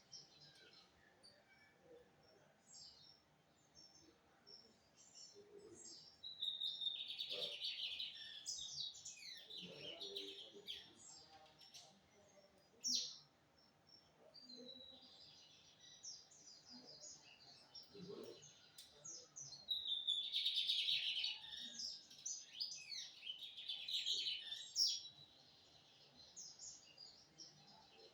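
Lined seedeater (bigodinho) singing: two long runs of rapid, twittering song notes, each lasting about five or six seconds, with scattered short notes in between.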